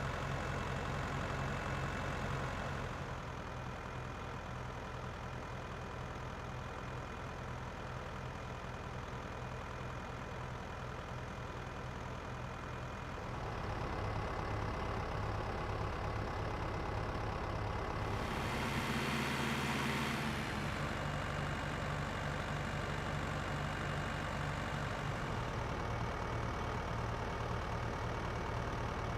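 A motor running steadily with a low hum, quieter for a stretch early on and stronger again from about halfway, with a brief rushing noise about two-thirds of the way through.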